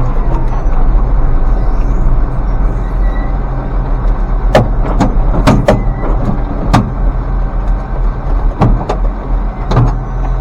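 Tractor engine running steadily under way, heard from inside the cab while hauling a load of corn. Sharp knocks and rattles come every second or so through the middle and later part.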